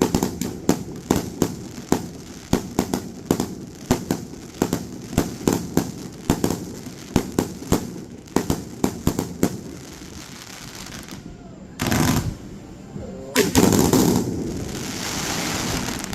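Fireworks going off in a rapid string of sharp bangs, two or three a second, for about ten seconds. After a short lull come two bigger bursts, the second trailing off into a noisy fading hiss.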